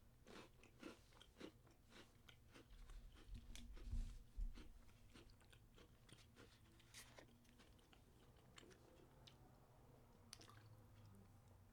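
A person chewing and crunching a crunchy sandwich cookie, faint and close, with scattered small clicks. About four seconds in come two louder low thumps.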